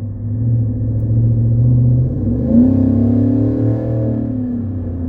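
2021 Chevrolet Silverado 1500's 6.2-litre V8 running through a Walkinshaw full exhaust system, heard inside the cabin with the windows up. A steady low drone, then about two seconds in the engine note climbs and eases back down as the truck accelerates.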